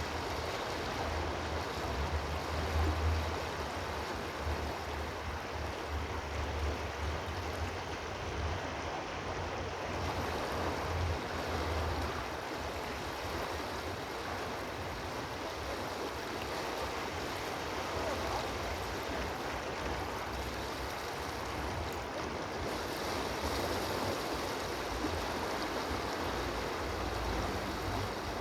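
Steady rushing of a flowing stream, with a low rumble underneath for about the first twelve seconds.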